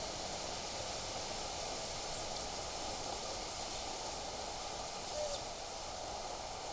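Steady wind blowing and rustling through the surroundings, an even outdoor hiss, with a couple of faint, very high chirps about two seconds in and again about five seconds in.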